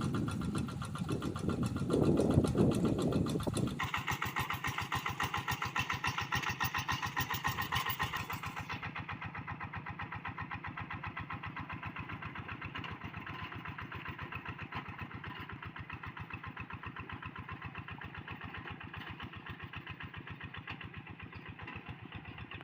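Kubota RD85DI single-cylinder diesel on a Quick G1000 hand tractor running with a steady, rapid beat of firing strokes. It is louder and rougher for the first few seconds, then settles to an even beat.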